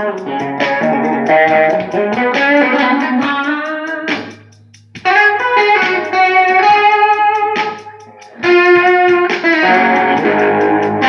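Guitar, most likely electric, playing a blues lead line of picked single notes, with a note bent upward about two seconds in. It pauses briefly twice, around four seconds in and again around eight.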